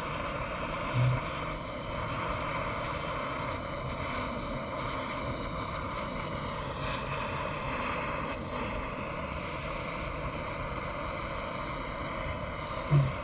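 Soldering torch flame burning with a steady hiss while heating a copper pipe joint. Two brief low bumps come about a second in and near the end.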